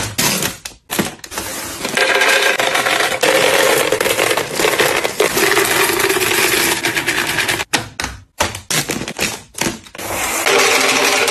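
Short clicks and knocks, then a dense, rapid rattling clatter of things being handled that lasts several seconds. It breaks off into separate clicks and knocks and starts again near the end.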